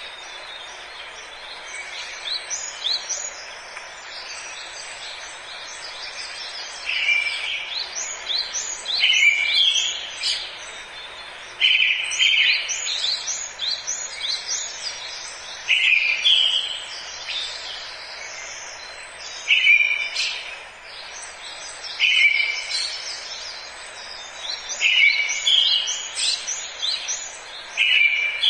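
Forest birdsong: several birds chirping and singing over a steady background hiss. From about seven seconds in, one louder call repeats every three or four seconds.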